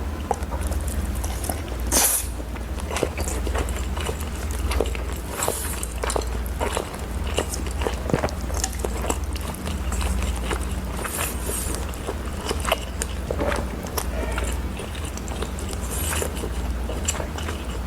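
A person chewing and eating close to the microphone, with frequent wet clicks and smacks and a few louder noisy bursts.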